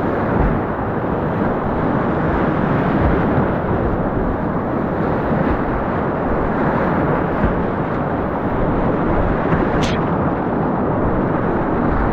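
River whitewater rushing, a loud, steady wash of churning water, with one brief sharp tick near the end.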